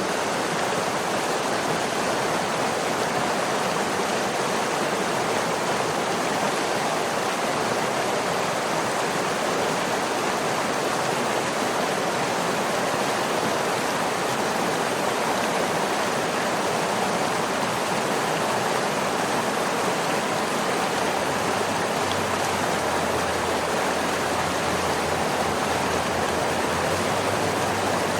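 Waterfall: water falling and rushing in a steady, unchanging roar.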